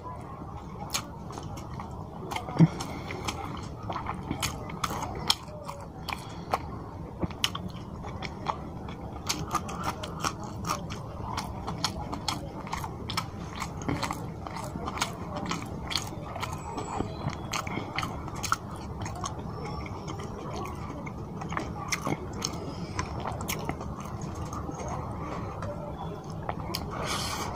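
Close-miked chewing of rice and fish curry, with wet mouth noises and many short sharp lip smacks and clicks throughout; one smack about two and a half seconds in is the loudest.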